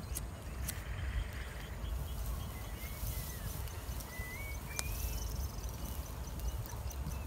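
Small birds chirping with short rising whistles over a steady low rumble of open-air background noise.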